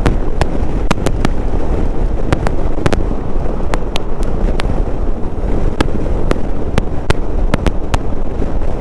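Wind rumble and road noise on a helmet-mounted microphone while riding a motorcycle. Irregular sharp clicks, about two a second, come from the microphone setup.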